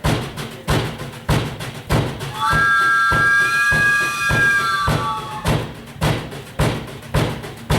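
Band imitating a steam train: a steady chugging beat of about one and a half strokes a second, with a chord-like train whistle blown about two and a half seconds in and held for about two and a half seconds, sagging in pitch as it ends.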